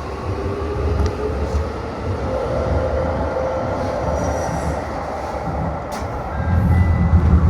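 Seibu New 2000 series electric commuter train running, heard from inside the car: a steady rumble of wheels on track with a faint motor whine that rises slowly in pitch as the train picks up speed. The rumble grows louder near the end.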